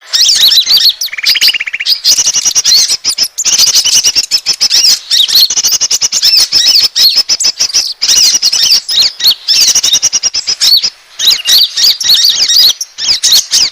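Bird-lure recording of the small songbird called konin: a dense, loud stream of rapid high chirps and squeaks, with a short buzzy trill about a second in.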